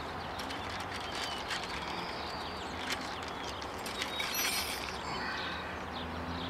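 Outdoor background with a few faint bird chirps and scattered small clicks and knocks of handling.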